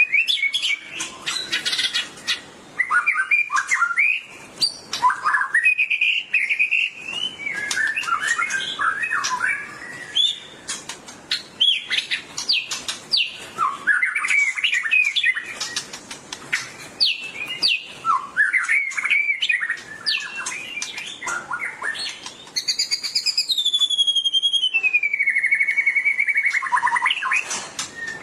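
White-rumped shama (murai batu) singing loudly in fast, varied whistled phrases mixed with sharp high clicks. Near the end comes one long wavering whistle that falls in pitch.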